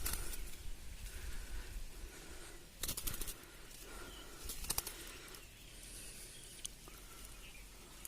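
Three short bursts of rustling, a few seconds apart, over a quiet outdoor background.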